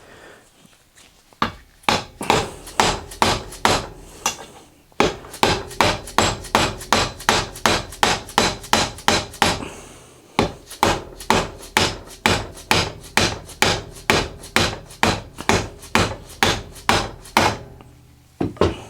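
Hammer blows striking metal, driving an old ball bearing out of a vintage scooter's wheel hub. Sharp strikes about three a second, in three runs with two short pauses.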